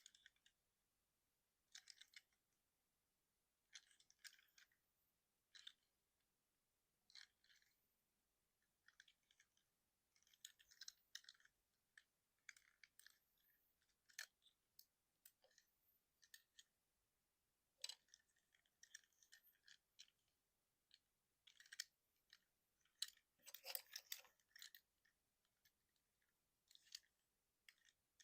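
Plastic parts of a Transformers Generations Trailcutter action figure clicking and clacking in short, scattered bursts as its joints and panels are moved during transformation, with a denser rattle near the end.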